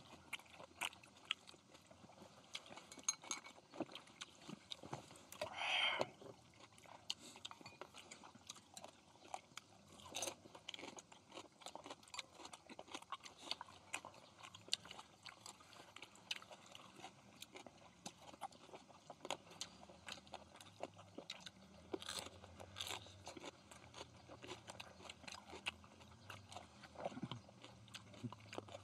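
People chewing and crunching a meal of grilled pork belly and leaf wraps close to the microphone, with many small wet clicks and smacks. There are louder moments about six and twenty-two seconds in.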